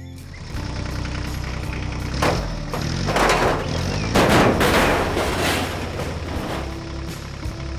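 Cartoon background music with a run of loud noise bursts layered over it in the middle, each a rush of noise lasting under a second, as sound effects.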